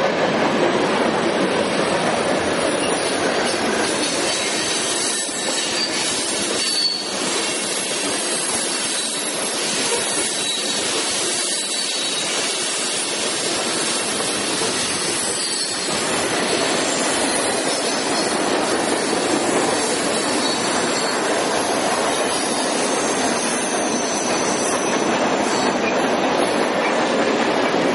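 Freight cars of a CSX mixed manifest train rolling past on a curve: a steady rush of steel wheels on rail, with a faint high squeal of the wheel flanges coming and going.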